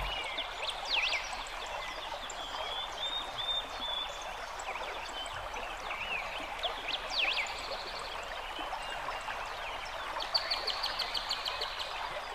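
Birds chirping over a steady background hiss, with a quick run of short, rapid chirps near the end.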